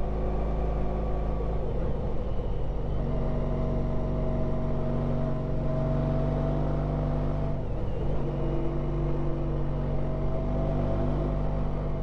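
Honda ST1300 Pan European's V4 engine pulling steadily under way, over wind rush. The engine note breaks off briefly about two seconds in and again near eight seconds, then settles at a new steady pitch.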